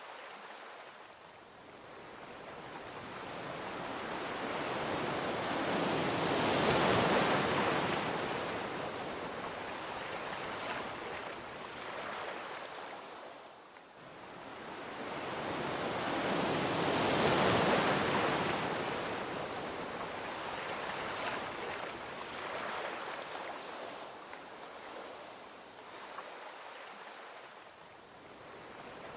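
Gentle ocean waves rolling onto a beach. Two waves swell up over several seconds, about ten seconds apart, then wash back and fade.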